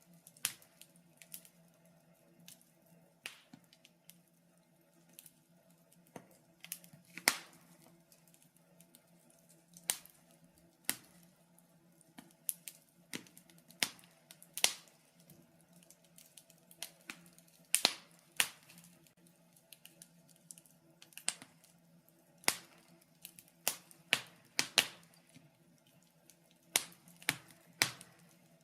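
Wood fire crackling: irregular sharp snaps and pops, some much louder than others, over a faint steady low hum.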